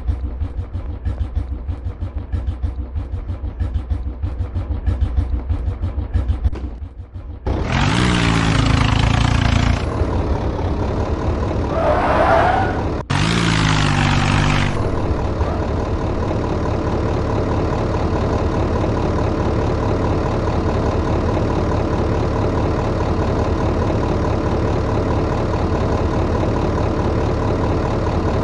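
Tractor diesel engine idling with an even pulsing beat, revved up twice in loud bursts that fall away, then settling into a steady idle.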